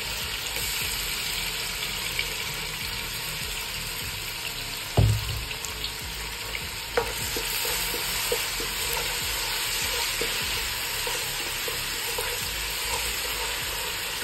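Ginger-garlic paste and slit green chillies sizzling in hot oil in a non-stick pot: a steady frying hiss. A single low thump about five seconds in is the loudest sound. From about seven seconds in, a spatula scrapes and taps in the pot as the mixture is stirred.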